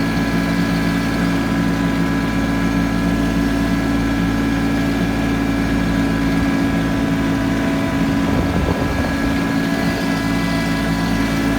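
Kubota B2650 compact tractor's diesel engine running at a steady speed.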